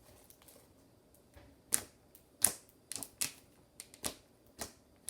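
Thick slime, stiffened with toilet paper, being kneaded in the hands, giving a series of sharp, irregular clicks and pops from trapped air, starting about a second and a half in.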